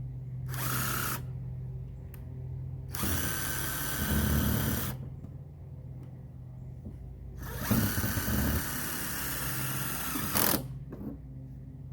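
Cordless drill driving screws into the sheet-metal pipe of a mini wood stove chimney, run in three bursts: a short one near the start, a longer one about three seconds in, and a longer one still about seven seconds in.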